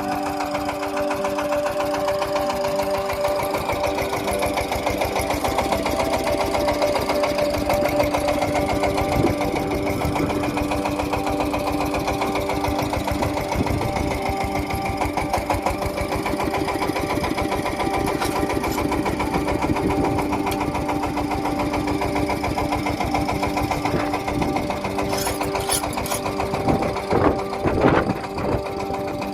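An engine running steadily with a fast, even knocking beat, with a few louder clanks near the end.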